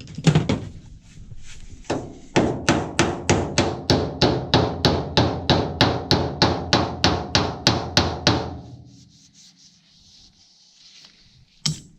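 A hammer striking metal in a quick, even run of blows, about three a second, lasting some six seconds before it stops.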